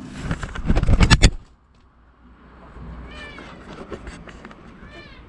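A loud clatter of knocks and rustling for about a second and a half, then two short, arched, high animal calls, one about three seconds in and one near the end.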